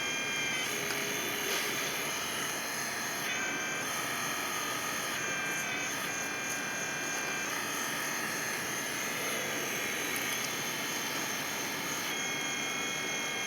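1/14 scale RC excavator running while it digs and loads dirt: a steady high mechanical whine whose pitch steps up and down several times as the controls are worked and the load changes.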